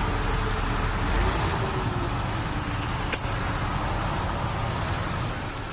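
Enduro motorcycle engine running steadily, its pitch swelling and easing off once about a second in. A single sharp click comes about three seconds in.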